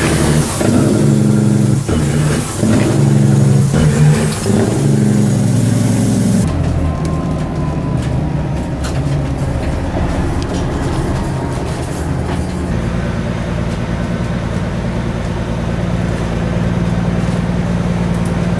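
Diesel semi-truck engines revving loudly, then about six seconds in a change to a steadier, lower engine running.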